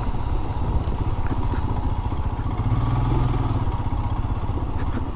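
Royal Enfield Himalayan's single-cylinder engine running steadily as the motorcycle cruises along a road, with wind noise over it.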